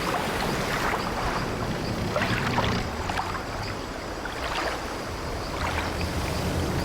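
Ambience of sea waves washing against an old wooden ship, with creaking of the ship's timbers; a steady wash that swells irregularly every second or two over a low rumble.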